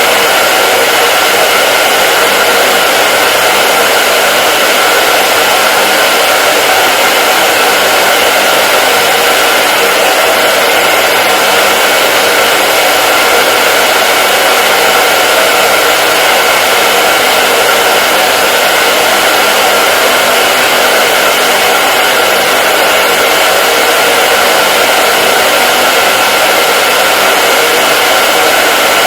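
Hair dryer running steadily on one setting: a constant airy rush with a faint motor whine held at the same pitch, no change in speed or level.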